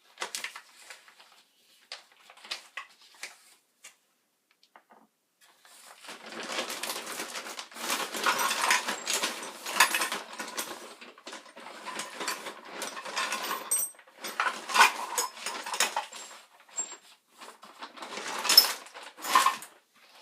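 Small hard objects being handled: scattered clicks at first, then a busier run of scraping and rustling with sharp clinks, loudest a couple of seconds before the end.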